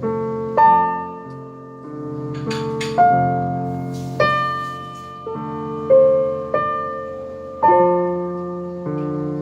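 Piano duet played four hands by a beginner and his teacher: slow notes and chords struck about every second or so, each ringing and fading over held low notes.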